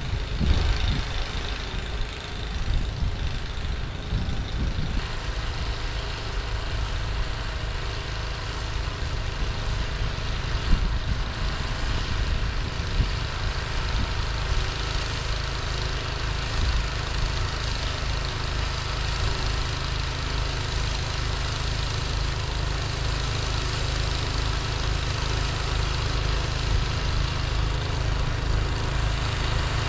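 A 2004 Toro 826LE two-stage snowblower's engine running steadily as it throws snow, with a hiss of snow and auger noise over the drone. A single sharp knock stands out about eleven seconds in.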